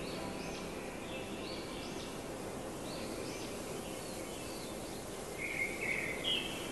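Birds chirping in short repeated calls, about one a second, over a steady background hiss of outdoor noise.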